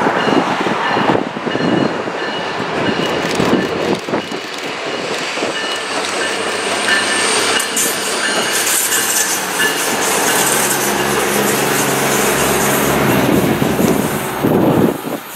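SMART Nippon Sharyo diesel multiple unit passing on the rails: wheels rumbling on the track with its diesel engine running, the engine's low hum clearest about two-thirds of the way through. Thin high-pitched wheel tones ring over the rumble in the first few seconds.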